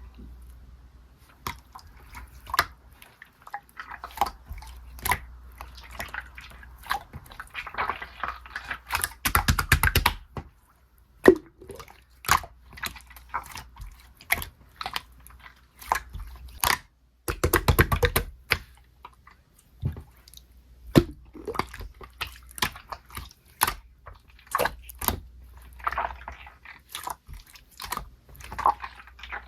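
Clear slime being squished and pressed by hand: a steady run of sharp, wet clicks and pops, thickening twice into dense crackling bursts.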